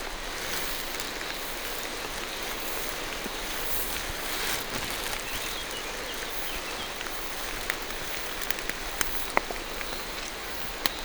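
Steady rain falling through a forest canopy, a continuous hiss of drops on leaves, with scattered sharper taps in the second half.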